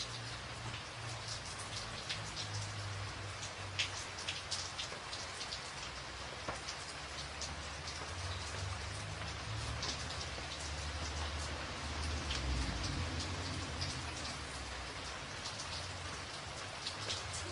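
Rain falling on a tin roof: a steady hiss of rain with many separate sharp drop ticks on the metal. A low rumble runs underneath and swells slightly about twelve seconds in.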